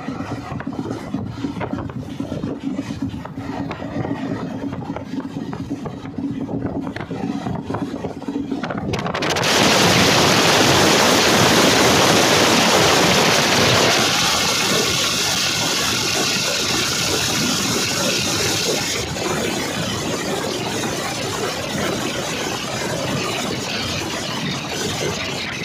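Express passenger train running, heard on board: a steady rumble of the moving train. About nine seconds in a much louder rush sets in suddenly and eases off a little after about five seconds, staying loud.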